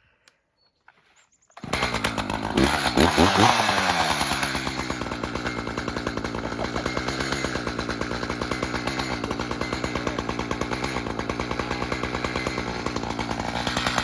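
Chainsaw cutting in suddenly after a second and a half of silence, revving up and down, then running steadily at a slightly lower pitch under load as it cuts the face notch into a spruce trunk.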